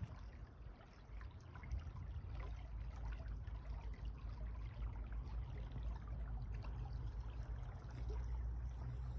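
Water trickling and flowing over a steady low rumble.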